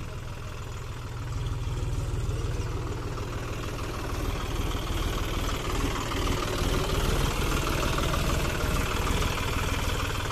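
John Deere 5050D tractor's three-cylinder diesel engine running steadily, growing louder a couple of seconds in and again about four seconds in.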